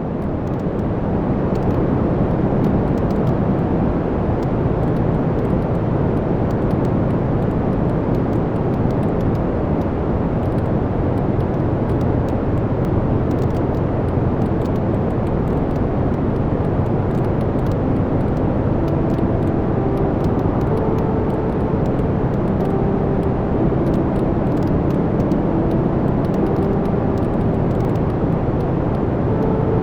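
Wood fire in a fireplace burning with a steady low roar, scattered with small crackles and pops from the burning logs. It fades in over the first two seconds.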